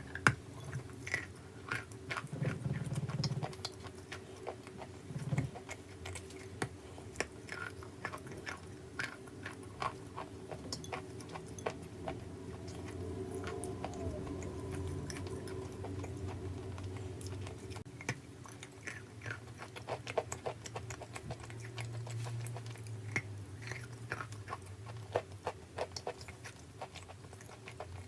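A person biting and chewing a hard, crunchy piece of edible mineral: many sharp, irregular crunches and snaps, over a faint low hum.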